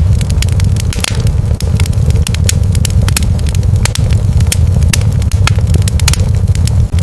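Wood fire crackling, with many sharp pops and snaps over a steady low rumble.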